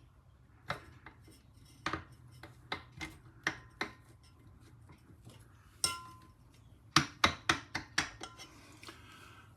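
Hand tools and small metal parts clicking and clinking as a British Seagull outboard is taken apart: scattered taps, one with a short metallic ring about six seconds in, then a quick run of clicks a second later.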